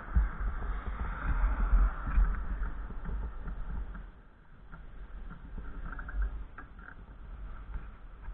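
Wind buffeting the microphone in gusts, a low rumble that is stronger for the first few seconds and then eases, with a few faint ticks.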